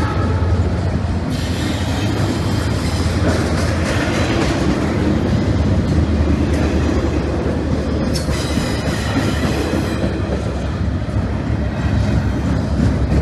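Double-stack intermodal freight train's well cars rolling past: a steady rumble with wheel clatter over the rail joints, and a thin high wheel squeal that comes in about a second in and carries on, briefly breaking off about two-thirds of the way through.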